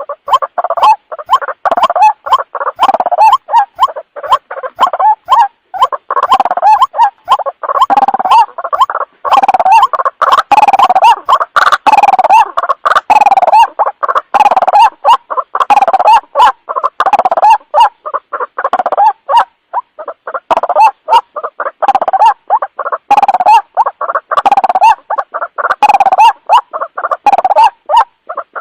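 White-breasted waterhen (ruak-ruak) calls used as a bird lure: a loud, unbroken run of short repeated notes, several a second.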